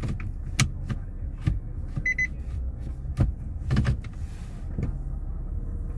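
Inside a car cabin: a series of sharp clicks and knocks, with a short, high double beep about two seconds in, over a steady low hum.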